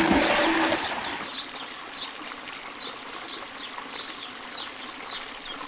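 A burst of rushing water for about a second, with a short two-tone horn toot under it, then settling to a faint trickle with short high chirps repeating about twice a second.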